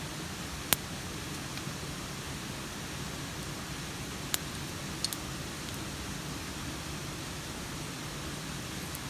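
Steady rain hiss, broken by three sharp pops from the wood fire: one about a second in and two more between four and five seconds in.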